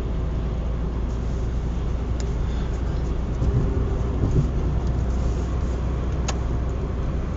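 Steady road and engine rumble of a car being driven, heard from inside the cabin on a cell phone microphone, with a couple of short ticks, the sharpest about six seconds in.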